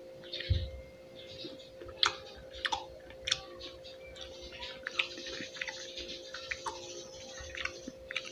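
Close-up mouth sounds of chewing crisp, juicy pineapple: sharp wet clicks and smacks, with a juicy crackling hiss through the middle and a dull thump about half a second in. A faint steady hum runs beneath.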